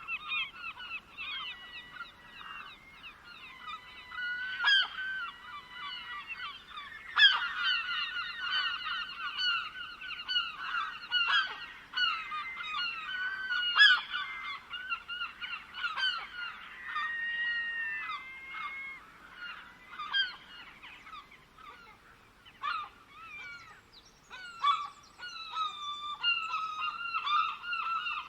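A flock of birds calling over one another in a dense, continuous chorus of short, pitched calls, thinning briefly about three-quarters of the way through before picking up again.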